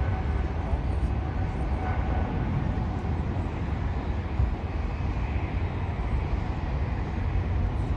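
Jet airliner engine noise: a steady rumble with no sudden events.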